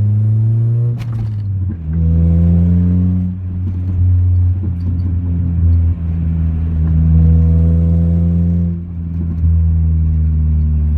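Honda Accord's four-cylinder engine running through a full stainless exhaust. Its pitch climbs slowly and then drops back about five times.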